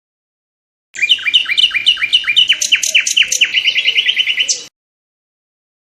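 A songbird singing one phrase of rapid repeated notes, each sweeping downward, that quickens into a fast trill. It starts about a second in and cuts off abruptly near the end.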